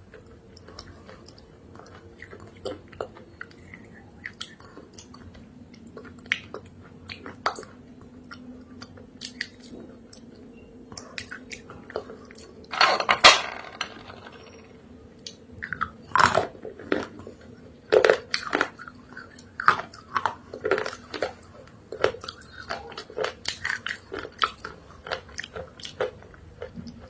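A person biting into and chewing crunchy clay with paste: scattered crackly crunches, one loud drawn-out crunch about 13 seconds in, then a quick run of chewing crackles.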